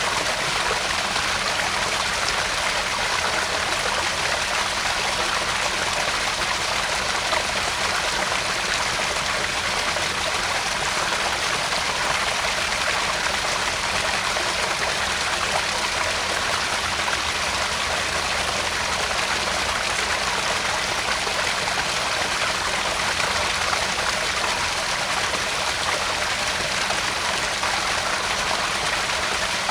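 Small garden pond waterfall, water falling and splashing steadily into the pond.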